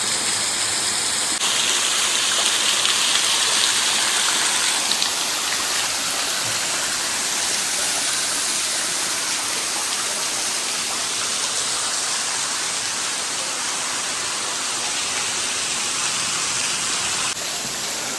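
Waterfall splashing: a steady rush of falling water, which changes character abruptly about a second in and again near the end.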